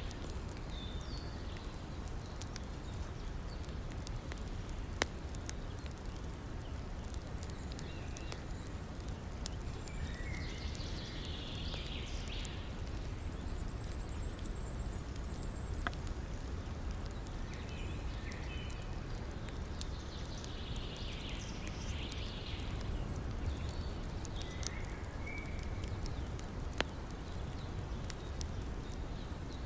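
Wood fire crackling with scattered sharp pops over the steady rush of a river, with a few bird calls now and then.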